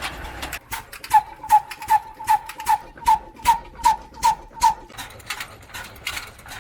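Old black diesel engine of a wheat flour mill, rated 22 hp at 300 RPM, running with a slow, sharp beat: about ten evenly spaced knocks at roughly two and a half a second, then fainter irregular clicks.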